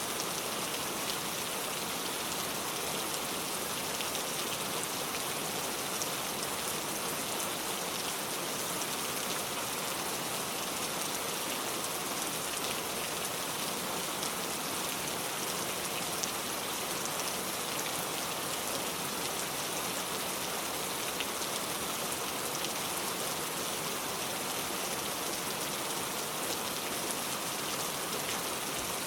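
Steady rain falling, an even hiss of rain with a scatter of individual drops pattering on a surface.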